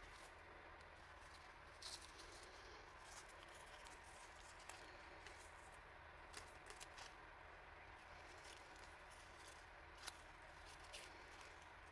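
Faint handling noise: scattered small clicks and crinkles of packaging or paper stationery being handled, the sharpest about ten seconds in, over a low steady hiss.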